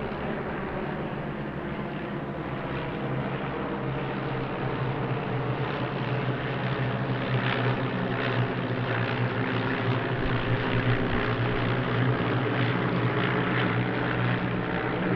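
Piston engines of a formation of de Havilland Tiger Moth biplanes droning in flight, a steady propeller drone that grows gradually louder as the formation draws nearer.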